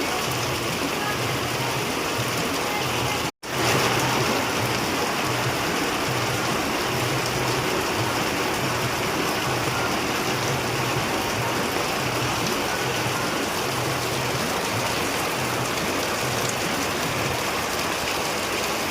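Heavy rain falling steadily, a loud even hiss of downpour, broken by a split-second dropout about three and a half seconds in.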